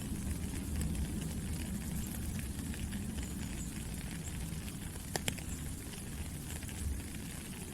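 Steady rain falling, an even hiss spotted with small drop ticks, with two sharper drop hits about five seconds in.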